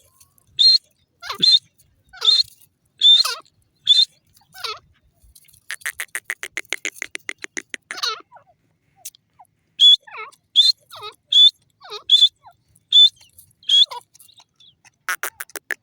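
Grey francolin calling: a run of sharp, high call notes about every 0.7 s, broken about six seconds in by a fast rattling chatter of many quick pulses. The chatter comes again near the end.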